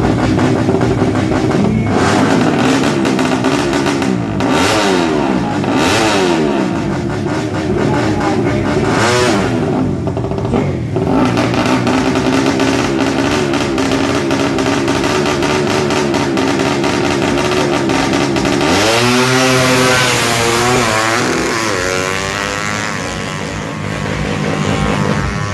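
Highly tuned 200cc underbone drag-racing motorcycle engine revving hard in repeated blips at the start line. Near the end it launches: the pitch rises sharply, drops back and rises again through about three gear changes, then fades as the bike pulls away.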